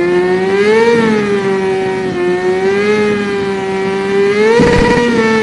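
A cat giving one long, drawn-out yowl, its pitch wavering slowly up and down and rising harshly near the end: the sound of an angry cat.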